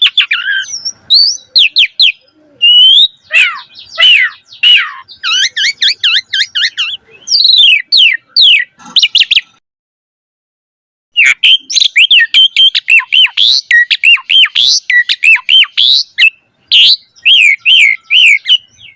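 Javan pied starling (jalak suren) singing a fast, varied song of loud whistles, chirps and quickly repeated rising-and-falling notes. The song breaks off completely for about a second and a half near the middle, then resumes.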